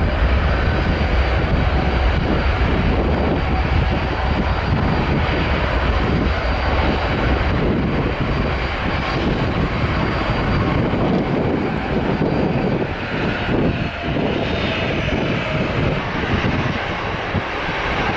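Airliner engines running on the runway: a steady loud rushing noise with a faint high whine. The deep rumble eases off after the first few seconds.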